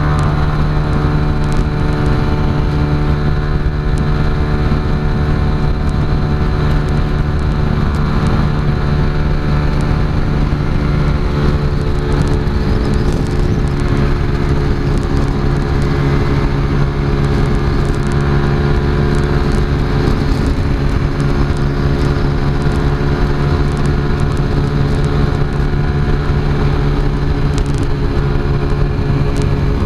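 Keeway RKS 125's single-cylinder engine heard from the rider's seat, running at steady high revs at speed, its pitch holding almost constant.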